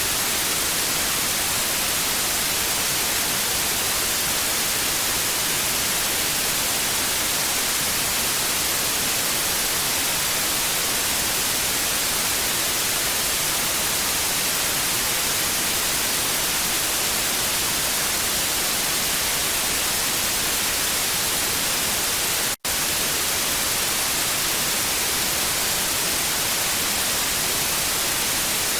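Television static: a steady, even hiss, strongest in the treble, that cuts out for an instant about three-quarters of the way through.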